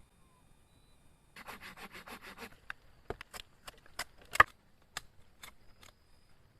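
Wood being worked by hand: a quick run of about ten rubbing or sawing strokes, then scattered sharp knocks and snaps, one much louder than the rest.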